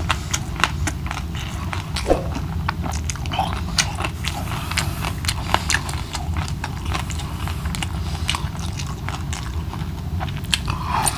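Close-miked chewing and biting of crispy fried milkfish (daing na bangus), with many irregular sharp crunches.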